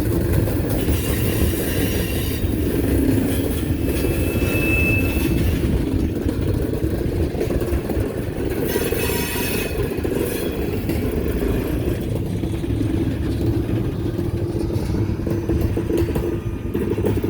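Railroad train rolling past with a steady rumble of wheels on rail, and a brief high wheel squeal about four to five seconds in.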